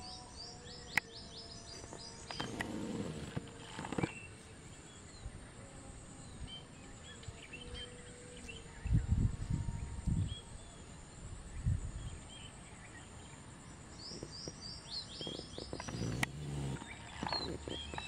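Small wild birds chirping: scattered short high chirps, and twice a fast run of high descending notes, near the start and about fifteen seconds in. A few low thuds about nine to ten seconds in.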